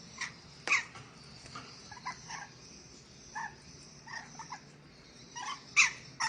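Nuri dora parrot from Sulawesi giving short, sharp screeches with softer chattering calls in between; the loudest screeches come near the end.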